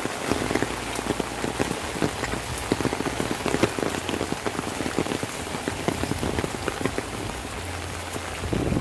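Heavy rain falling, a steady hiss with many close, distinct drop impacts, briefly louder near the end.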